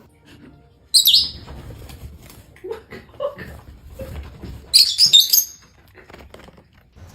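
A parrot calling: a loud high-pitched chirping burst about a second in, then a quicker run of chirps around five seconds in, with softer sounds between.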